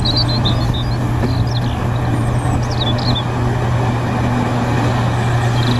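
Pressure washer running steadily, a motor hum under a constant hiss of spraying water. Birds chirp faintly in the background.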